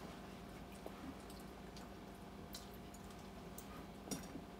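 Faint mouth sounds of someone chewing braised pork: a few small, scattered wet clicks and smacks over a low steady hum.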